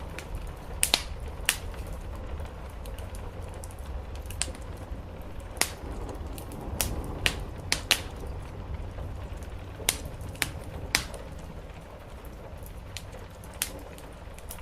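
Wood fire crackling, with sharp irregular pops scattered through it, over a steady low background rumble.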